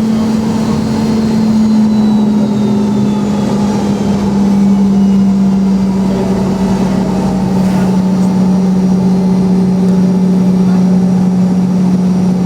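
Boeing 717's rear-mounted Rolls-Royce BR715 turbofan engines running, heard inside the cabin as a loud steady drone with a strong hum that sinks slightly in pitch over the seconds.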